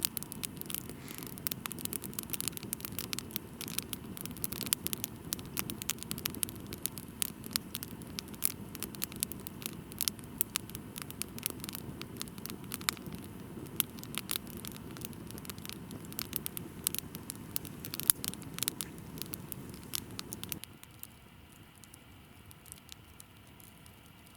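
Dense crackling patter of many small sharp clicks over a low rumble, stopping abruptly about twenty seconds in.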